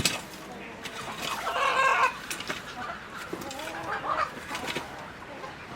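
Chickens clucking, with one louder drawn-out call about a second and a half in and a few shorter clucks later.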